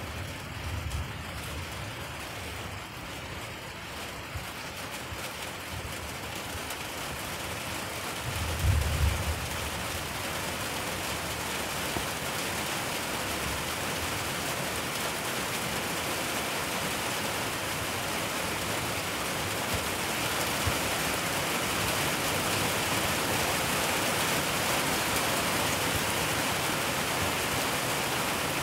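Rain falling steadily and gradually growing heavier. A brief low rumble about nine seconds in.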